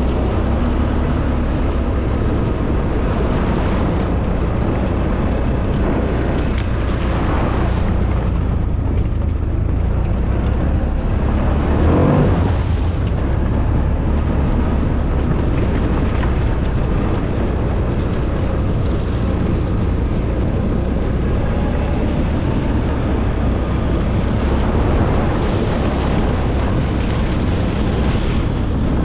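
ATV engine running steadily while under way, with a brief louder swell about twelve seconds in.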